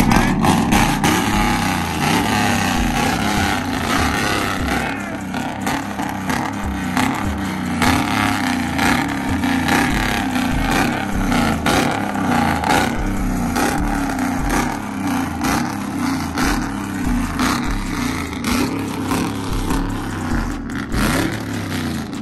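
Truck engine revving and running hard, with a steady bass beat pulsing under it about every 0.7 seconds.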